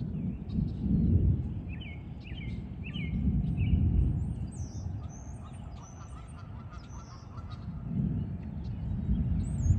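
Birds chirping, with short calls and trills scattered throughout, over deep rumbling swells that build and fade about every three to four seconds and are the loudest sound.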